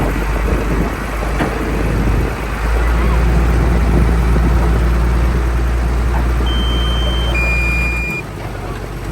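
Heavy earthmoving machinery's diesel engine running with a steady low rumble. Two short high beeps come near the end, the second lower in pitch than the first.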